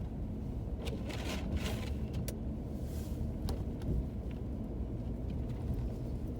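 Steady low rumble of a car driving on a snow-covered road, heard from inside the cabin: engine and tyre noise. A few short hissing sounds come about a second in and again near three seconds.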